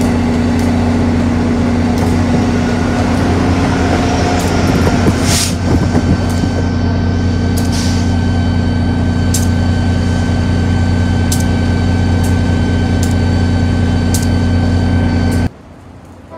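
Amtrak Acela Express electric trainset moving along the platform with a loud, steady electric hum and low drone, broken by scattered sharp clicks and a brief rush of noise about five seconds in. The sound cuts off suddenly near the end.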